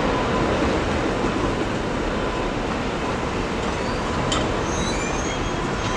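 BNSF freight train's rail cars rolling past on the track with a steady, even noise, with a few faint high wheel squeals about four to five seconds in.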